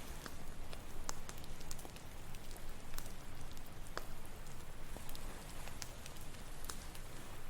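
Wood campfire crackling, with sharp irregular pops, over a steady wash of ocean waves.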